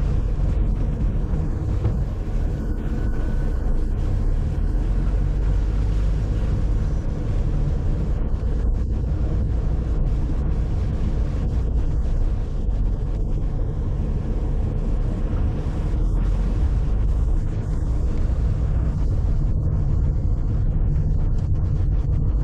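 Steady low rumble of a car being driven, engine and road noise with some wind.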